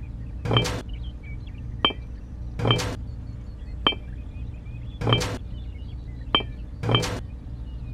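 Light hammering: about one strike a second, dull knocks alternating with sharp metallic clinks that ring briefly, over a steady low hum.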